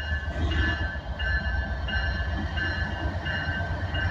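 Diesel freight locomotives rumbling low as a train pulls in. Over the rumble a bell rings in steady, evenly spaced strokes, about two a second.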